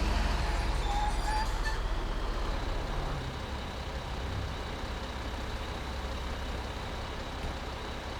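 Truck engine running with a steady low rumble, a little louder for the first three seconds and then settling.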